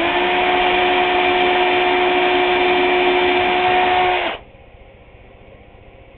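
Electric drill running at one steady speed while boring a hole in a wooden board, with a flat motor whine over the cutting noise, then stopping after about four seconds.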